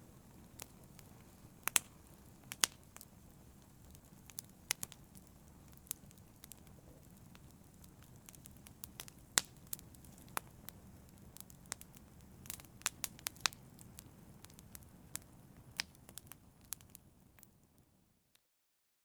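Fire crackling, with frequent sharp pops over a low steady rustle, fading out near the end.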